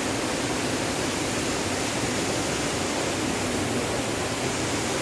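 Waterfall pouring down from a height, a steady rushing noise of falling water.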